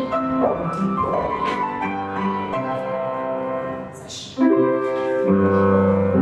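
Piano music: sustained notes and chords, with a louder chord coming in about four and a half seconds in.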